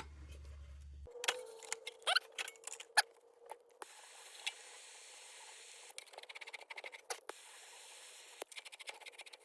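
Faint clicks, taps and light scraping of metal handling as hot solder is worked and wiped off a lantern's tin fount, over a faint steady hum.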